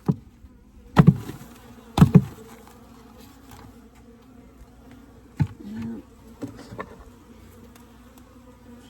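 Honeybees buzzing steadily around an open hive, with a few sharp knocks as a bee-covered frame is pounded against a hand to shake the bees off: one about a second in, a double knock about two seconds in, and another after about five seconds. The knocks are the loudest sounds.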